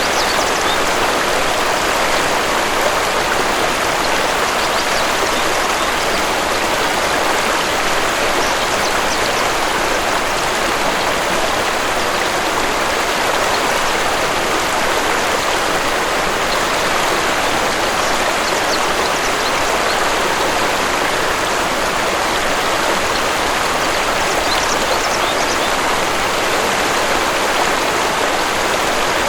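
Waterfall rushing steadily, an even wash of falling water, with a few faint bird chirps now and then.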